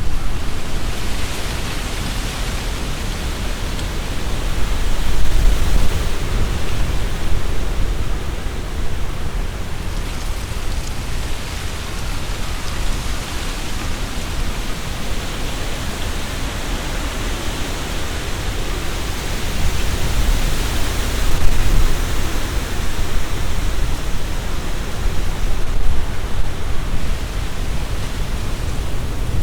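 Strong wind gusting through trees, the leaves rustling and hissing, with a heavy low rumble underneath. The wind swells about five seconds in and again around two-thirds of the way through.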